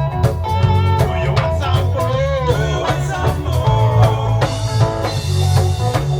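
Lovers rock reggae played by a live band: heavy bass line, drum kit and guitar, with a melodic line bending in pitch over the top.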